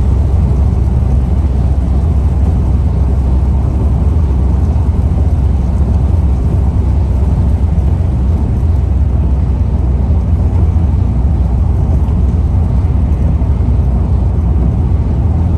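Steady low road and engine rumble heard inside the cabin of a car driving along at cruising speed.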